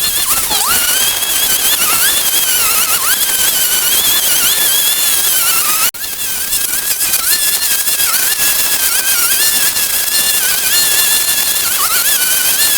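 High-pitched whine of a small electric power tool's motor, its pitch dipping and recovering over and over as it is loaded, over a steady hiss. The sound breaks off for an instant about six seconds in and resumes.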